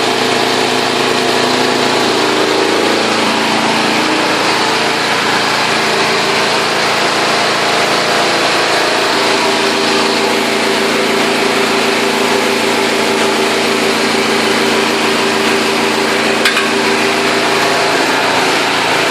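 Small engine powering a portable hydraulic tube-well drilling machine runs steadily. Its note shifts about three seconds in, and again around nine seconds, where a pulsing hum joins it. A single click comes near the end.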